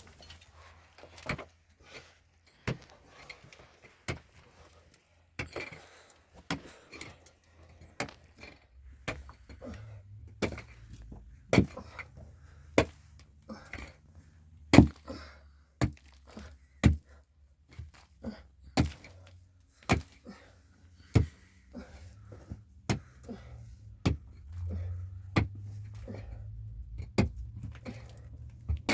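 Hard, sharp blows struck over and over, about one a second, like a tool striking wood or stone. A low steady rumble comes in about nine seconds in.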